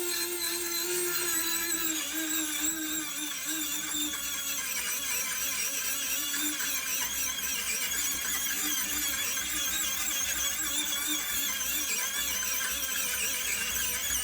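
Small high-speed power tool running steadily, a whine with a hissing grind over it, its pitch dipping slightly about two seconds in as it takes load, typical of working rusty iron during a restoration.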